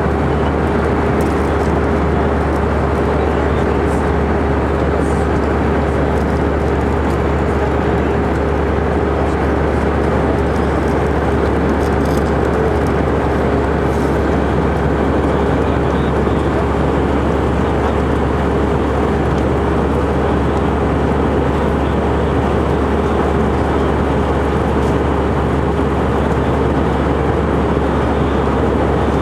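Steady cabin noise of an Airbus A319 in flight: engines and airflow making an even rushing drone with a constant low hum and a steady mid-pitched tone.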